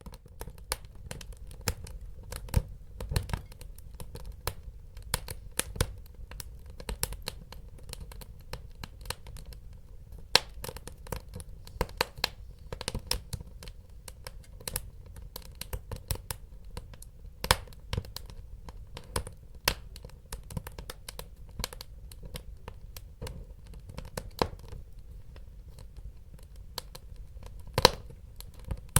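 Wood fire crackling: a steady low rumble of burning under many irregular sharp pops and snaps, the loudest pop near the end.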